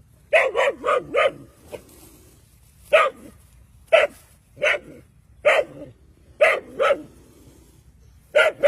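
A dog barking: a quick run of four barks, then about a dozen more single and paired barks roughly a second apart.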